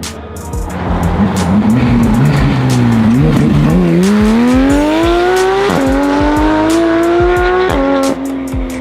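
Car engine accelerating hard, its pitch rising steadily for several seconds, then dropping suddenly near the end as it shifts up a gear.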